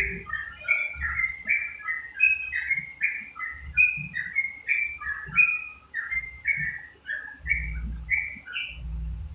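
Yellow-vented bulbul (trucuk) singing a fast, unbroken run of short, bright chirping notes, two to three a second, with a low rumble underneath toward the end.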